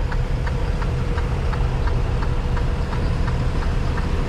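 Semi truck's diesel engine idling steadily, with a light regular ticking about three or four times a second.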